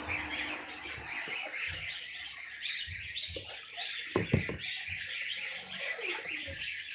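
Birds chirping, many quick high chirps overlapping without a break, with a few soft knocks about four seconds in.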